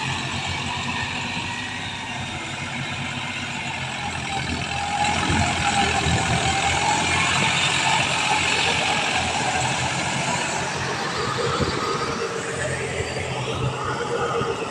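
Tractor engine running steadily, growing louder about five seconds in.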